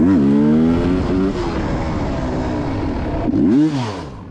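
Motorcycle engine revved in quick blips: one at the start and another about three and a half seconds in, with the engine running between them.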